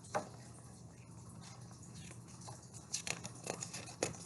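Faint rustling and light ticks of a picture book's paper page being handled and turned, the ticks more frequent in the second half.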